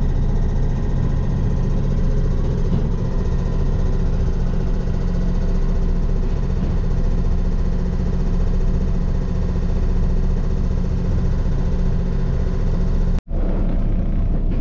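Steady low hum and rumble inside a railway passenger car, even and unchanging. It cuts off abruptly about a second before the end, and a similar steady background follows.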